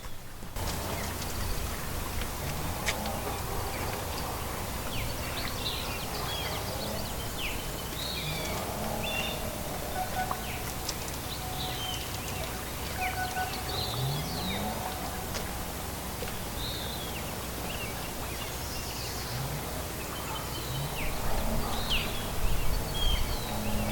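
Several small birds chirping and calling on and off over a steady low outdoor rumble, which swells louder near the end.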